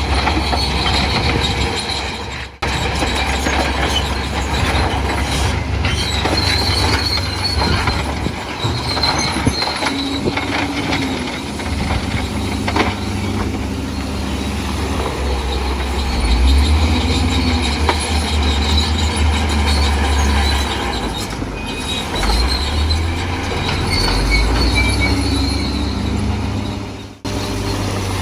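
Bulldozer working, its diesel engine giving a deep rumble that swells and eases under load, with high metallic squealing from its steel crawler tracks. The sound drops out briefly twice.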